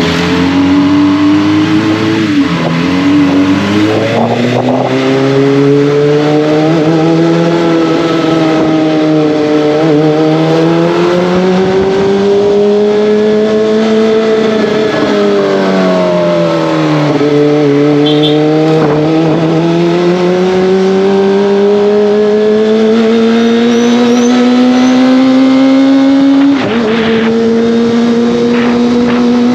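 Kawasaki ZX-25R's 250 cc inline-four engine and exhaust on the move, the revs climbing in long steady pulls and easing off around the middle. Near the end the pitch drops suddenly, as on an upshift, then holds steady.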